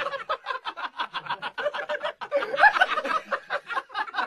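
A person laughing hard in a long run of quick, even ha-ha sounds, about six a second.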